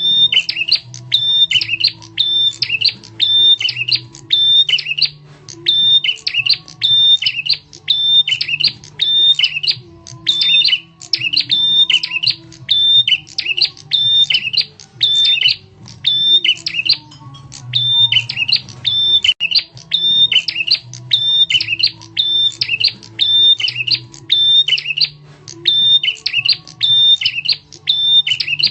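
Prenjak tamu bird lure call: a loud, sharp chirping phrase repeated evenly about once a second, over a low background hum.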